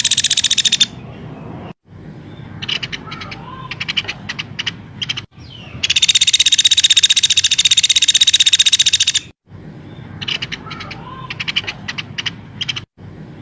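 Edited bird-song tutor recording of songbirds: long, loud, high, rapid trills alternate with runs of sharp, quick chirps. The sections are joined by abrupt cuts.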